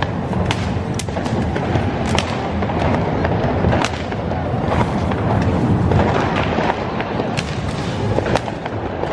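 Firecrackers and fireworks going off: sharp cracks and bangs every second or so over a steady, loud wash of noise.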